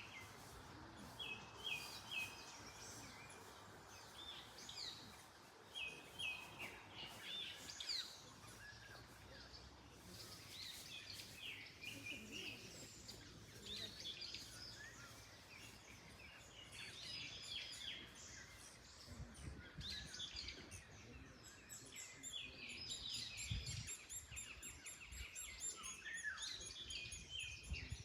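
Several small songbirds singing and calling, a mix of short repeated phrases and high chirps, over a soft steady outdoor haze of wind in the trees, with a few low gusts of wind rumble late on.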